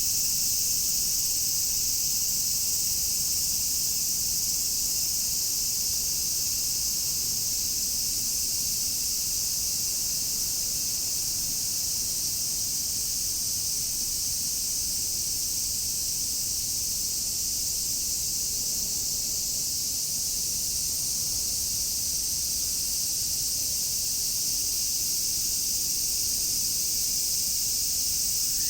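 A dense chorus of many cicadas, a steady high-pitched drone that never pauses.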